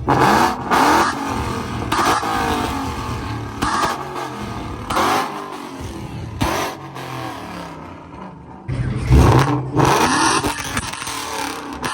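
Ford Mustang engine revved hard in short bursts, about eight blips, each rising and falling in pitch, with sharp bangs from the exhaust among them. The loudest blip comes near the end.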